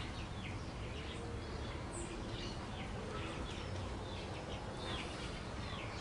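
Birds chirping: a scatter of many short, quick high chirps, over a steady low rumble.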